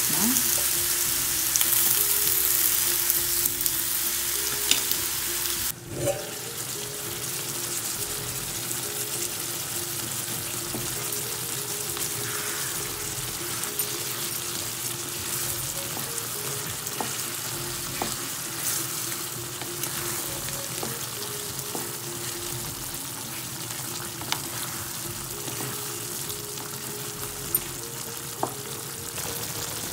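Tomato pieces sizzling and frying in hot oil in a nonstick pan, loud at first, then dropping abruptly to a quieter, steady frying about six seconds in. A wooden spatula stirring them gives an occasional light tap against the pan.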